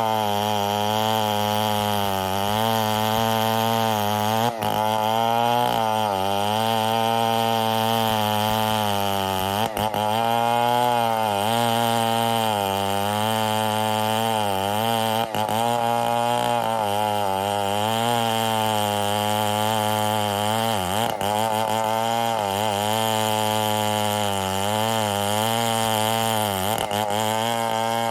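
Stihl 070 two-stroke chainsaw running at cutting speed while sawing ironwood, its pitch wavering under the load of the cut. It briefly dips and recovers about every five to six seconds.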